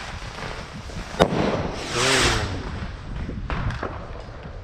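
Fireworks going off: a single sharp bang about a second in, followed by a loud hissing whoosh that swells and fades, then a few fainter cracks.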